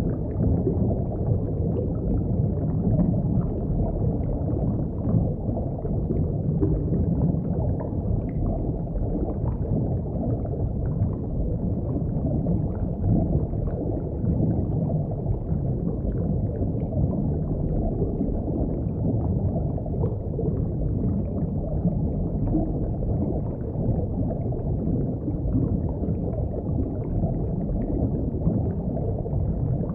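Steady low underwater rumble of moving water, a dense even noise with no distinct calls or clicks.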